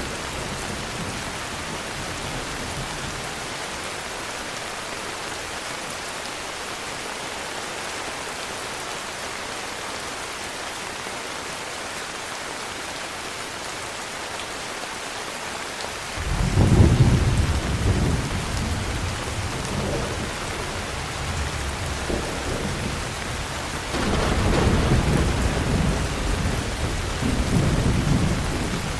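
Heavy rain falling steadily. Thunder breaks in suddenly about halfway through and rumbles for several seconds, and a second long roll of thunder comes near the end.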